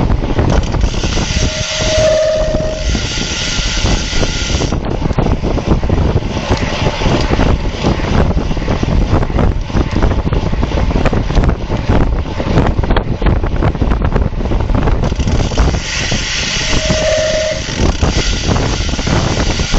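Heavy wind buffeting on the microphone of a road bike at race speed. Twice, about two seconds in and again near the end, a few seconds of higher hiss come in, each carrying a short steady tone about a second long.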